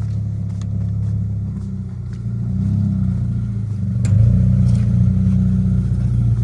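A motor vehicle's engine running close by with a steady low rumble. It grows louder about four seconds in.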